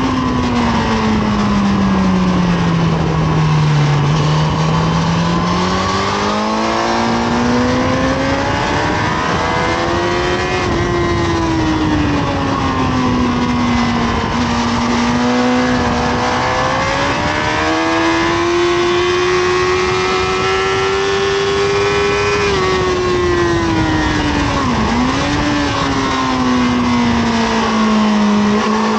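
Honda CBR1000RR SC57 inline-four engine at track speed, heard onboard with a constant rush of noise. The engine note falls for the first few seconds, climbs, falls and climbs again, then drops sharply about three quarters of the way through, with a brief quick dip soon after before rising again.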